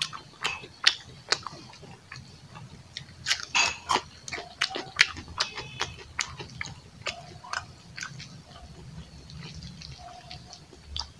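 Close-up chewing and lip-smacking of a person eating rice with his hand: an irregular run of sharp, wet mouth clicks.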